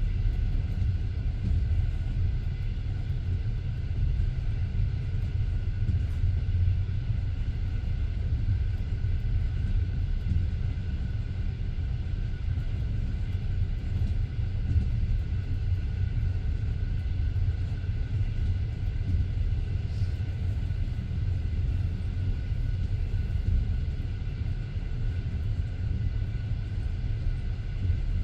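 Passenger train carriage running along the line, heard from inside the coach: a steady low rumble of the wheels on the rails, with no change in pace.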